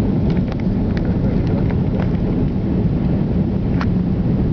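Steady low rumble of airliner cabin noise in flight, engines and airflow, with a few faint ticks.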